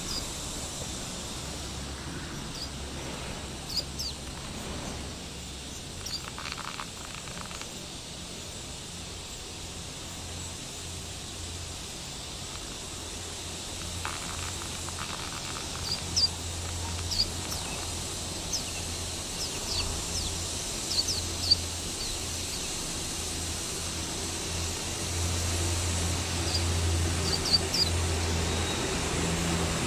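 Small birds giving scattered short, high chirps, mostly in the second half, over a steady low outdoor rumble that grows louder toward the end.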